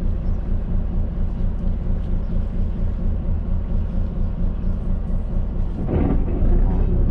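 Fishing ferry boat's engine running with a steady low throb. About six seconds in the sound gets louder and a steadier, higher engine note comes in.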